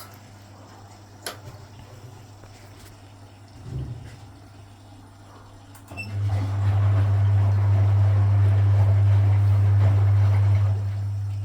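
Vintage Frigidaire front-loading washing machine working through a rinse: a low steady hum with a single click and a thud. About six seconds in, a much louder steady hum starts along with rushing water, as a pump or valve comes on, and it eases off near the end.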